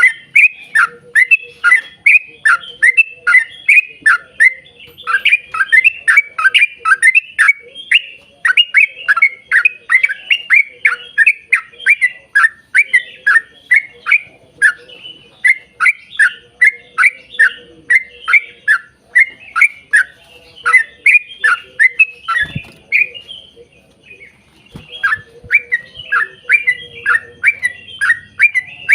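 Yellow-vented bulbul (trucukan) singing a long, fast run of short bubbly chirps, several a second, with a pause of about two seconds near the end before the song resumes.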